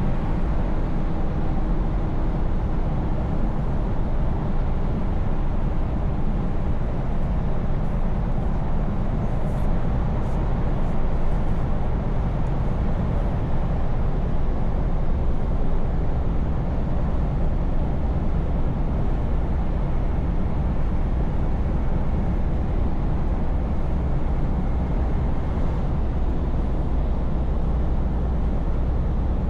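Scania S580 truck's 16-litre V8 engine running steadily at cruise, a low, even drone under steady road noise.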